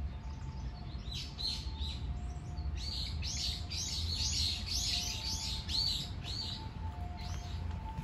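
A songbird singing a rapid series of short, high, arched notes, about three a second, thickest in the middle, with a low rumble underneath.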